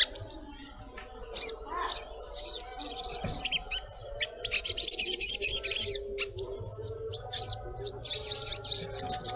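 Sunbird calling: sharp high chirps and fast, dense chattering trills, the longest about halfway through and another starting near the end.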